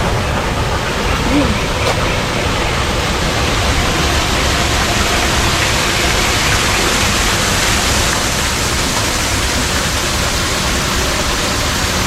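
Steady rushing of falling water, an even, unbroken wash of noise.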